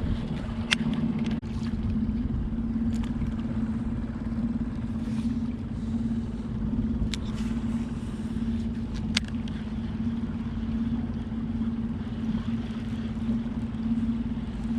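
A small Tohatsu 3.5 hp outboard motor running steadily, pushing a fishing boat along during its break-in, with a constant hum over a low rumble. A few brief sharp clicks come through over it.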